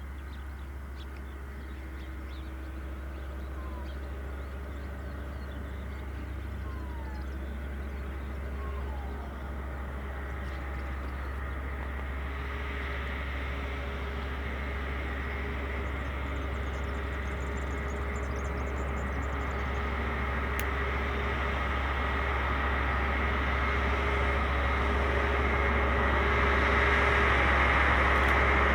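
CSR class diesel locomotive engine running under power, a steady drone growing steadily louder as the train approaches. Short bird chirps can be heard in the first several seconds.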